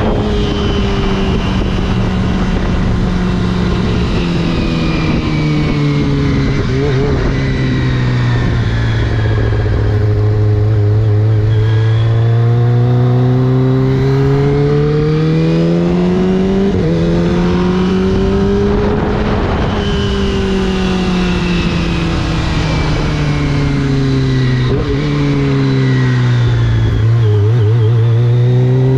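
Kawasaki Ninja ZX-25R's 250 cc inline-four through an Akrapovič racing-line exhaust, heard on a downhill ride. The engine note slides slowly down as the revs fall, climbs again to a peak, falls a second time and starts rising near the end.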